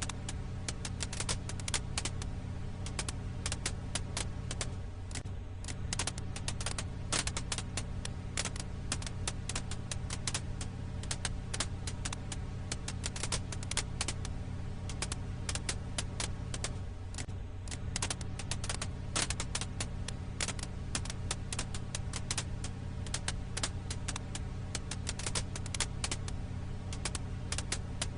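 Firewood crackling in a fire: dense, irregular snaps and pops over a steady low rumble.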